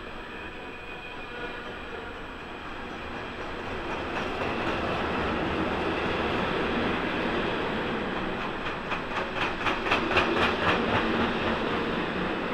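Freight train of tank and hopper wagons rolling past close by: a steady rumble and rush of steel wheels on rail that grows louder about four seconds in. A quick run of rhythmic wheel clacks comes in the last few seconds.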